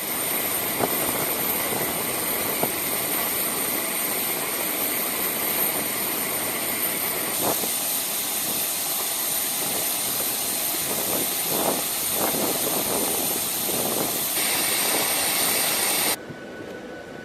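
Jet aircraft engines running steadily: an even rushing noise with a thin high-pitched whine, dropping suddenly to a quieter hiss near the end.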